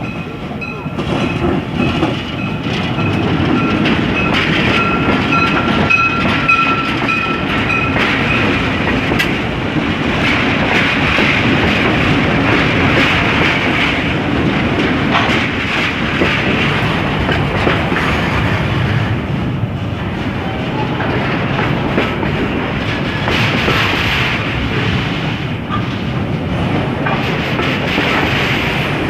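Container freight train rolling steadily past, wagons clattering over the rails. A thin high steady tone sits over the rumble for the first eight seconds or so.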